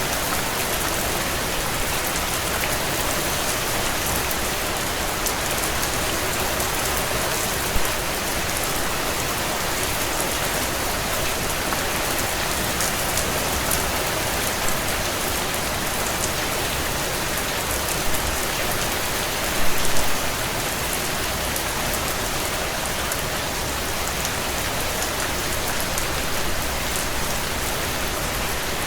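Heavy rain on a tin roof: a steady hiss of rainfall with scattered sharper drop hits. A brief cluster of louder hits comes about twenty seconds in.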